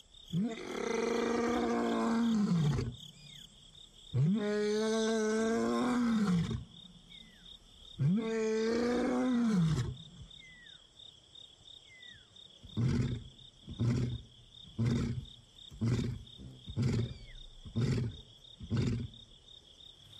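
Young male lion roaring: three long moaning calls, each rising then falling in pitch, followed by a run of about seven shorter grunts, a long-distance contact call to a missing companion. Crickets chirr steadily behind it.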